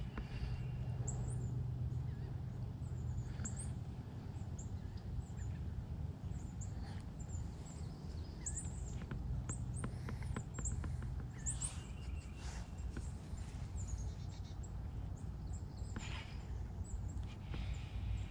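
Songbirds chirping, many short high-pitched chirps scattered throughout, over a steady low hum.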